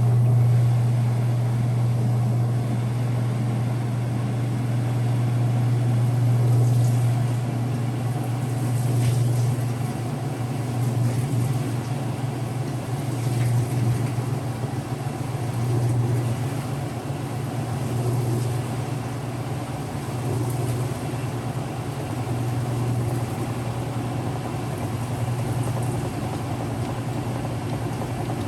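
Early-2000s Whirlpool direct-drive washer running, its motor giving a steady low hum that swells and eases slightly with the machine's mechanical noise.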